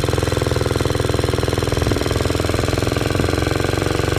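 Small Briggs & Stratton engine on a belt-driven motorized bicycle running steadily under way, a fast, even train of exhaust pulses.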